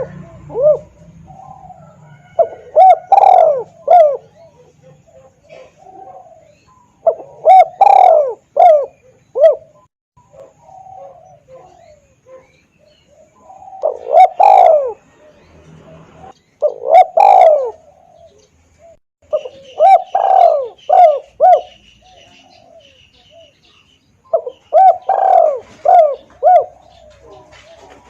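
Spotted dove (tekukur) cooing, loud and clear, as used for a lure call: a phrase of several rolling coo notes every few seconds, with short pauses between phrases.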